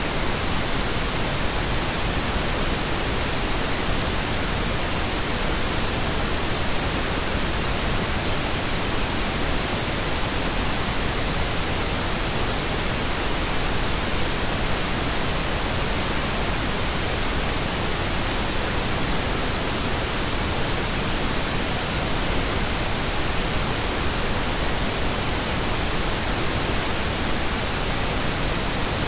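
Steady synthetic pink noise: an even hiss spread across the whole range, with no change in level.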